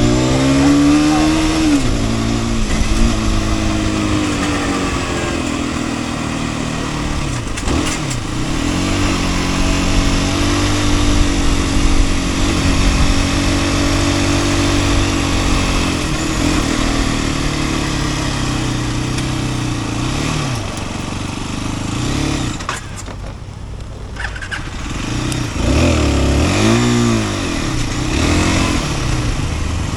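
Sport motorcycle engine under way, its pitch climbing and falling as it accelerates and shifts through the gears. About three-quarters of the way in the revs drop off briefly, then pick up again in quick rises and falls.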